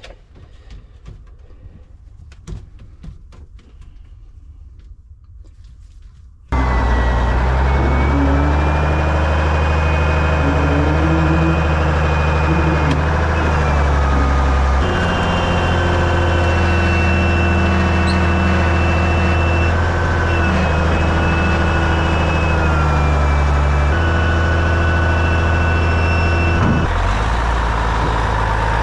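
Quiet with a few light clicks, then a heavy engine starts abruptly about six and a half seconds in. It runs loudly and steadily, with a whine that steps and glides in pitch several times as the engine speed changes.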